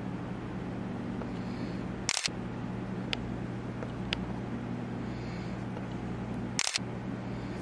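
Two short, sharp clicks about four and a half seconds apart, with a few fainter ticks between, over a steady low hum.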